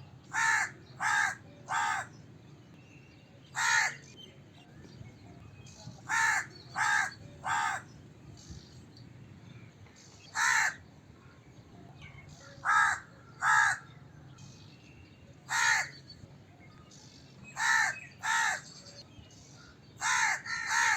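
Crow cawing: short, loud caws in groups of one to three, a new group every two to three seconds, with a faint steady background hiss.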